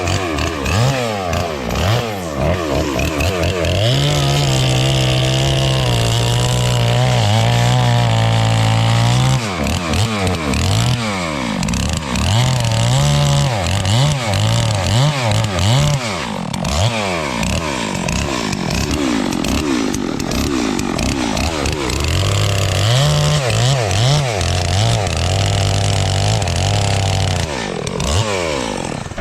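Chainsaw engine revving up and down, held at high revs for several seconds at a time, several times over.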